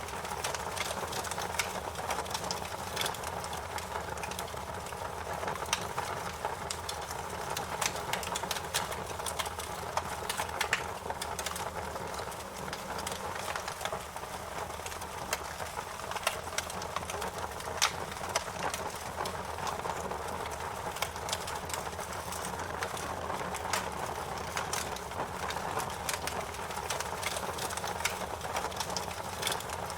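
Wood fire in a fireplace crackling, with frequent small irregular pops and snaps over a steady rushing hiss.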